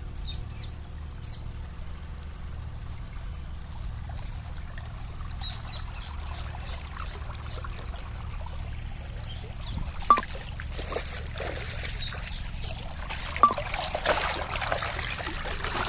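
Water splashing and trickling from a petrol-engine water pump's discharge, growing louder in the last few seconds, over a steady low hum from the running pump. Two sharp knocks stand out, about ten seconds in and again some three seconds later.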